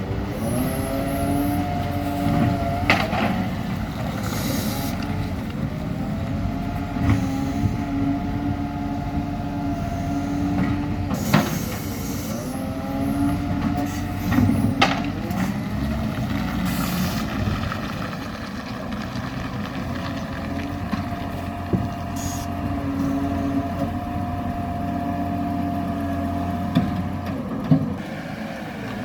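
Garbage truck running, with a steady whine that shifts in pitch now and then and a handful of sharp knocks and bangs.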